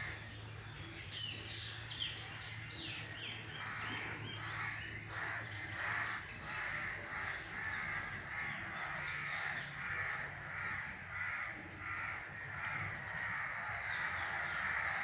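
Birds calling: quick high chirps in the first few seconds, then a run of repeated calls, about one or two a second, through the rest.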